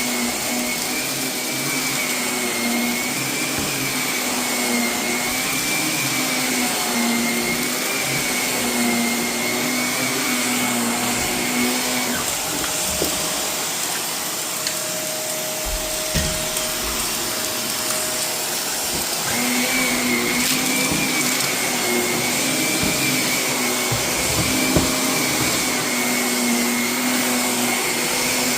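Vacuum cleaner running over carpet littered with renovation debris, its motor whine wavering slightly in pitch, with scattered crackles and ticks as grit is sucked up. The whine changes for several seconds around the middle.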